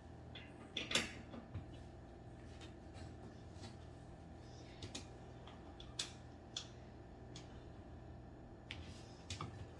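Scattered light clicks and taps from furniture parts and hardware being handled during flat-pack assembly, with sharper knocks about a second in and about six seconds in, over a low steady hum.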